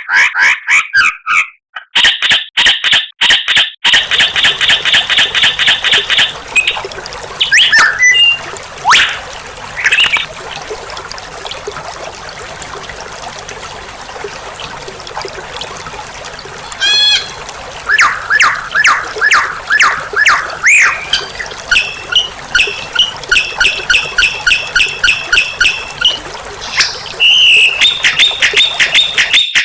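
White-rumped shama song: bursts of fast, repeated chip notes and trills, broken in the middle by a stretch of scattered whistles over a steady hiss, then rapid repeated phrases again near the end.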